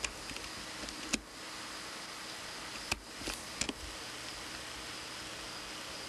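Steady hiss of a recording's noise floor with a faint steady high tone. A few sharp clicks break it about a second in and again around three seconds in.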